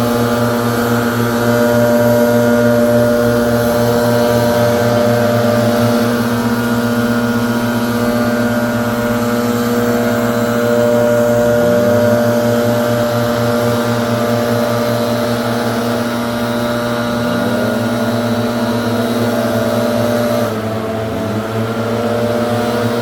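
Gas-powered leaf blower running steadily at high throttle. Its engine pitch dips briefly and recovers a few times, and it drops a little in level near the end.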